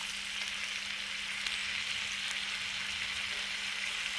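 Food frying on a hot cooking surface: a steady sizzling hiss with scattered small pops and crackles, over a faint steady low hum.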